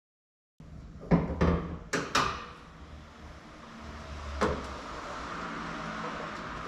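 Several sharp knocks and clunks, four close together about a second in and one more near the middle, over a steady low background hum.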